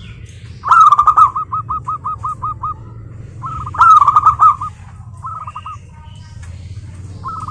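Zebra dove cooing: several phrases of rapid staccato coos, each a quick run of short repeated notes. The loudest phrases come about a second in and again about four seconds in, over a steady low hum.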